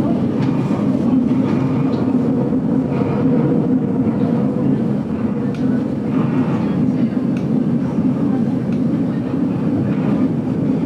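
Steady rumble of the GoldenPass Belle Époque metre-gauge train running, heard from inside the vintage carriage, with a faint steady hum and scattered light clicks from the wheels and car body.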